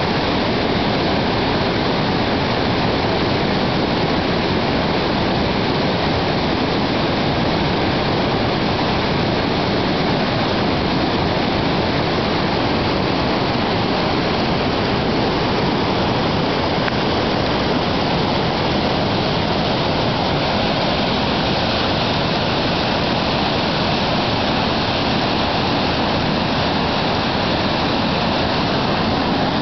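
Whitewater rapids rushing in a loud, steady wash of water noise.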